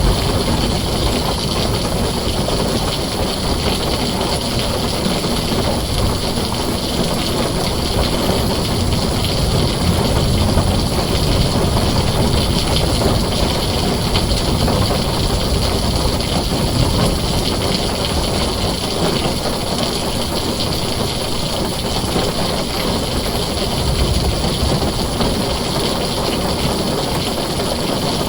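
Heavy rain drumming steadily on a tin roof, a dense even hiss with a deep low rumble underneath.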